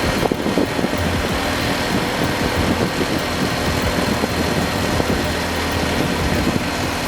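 Vehicle engine running steadily, a low hum under a constant noisy rush.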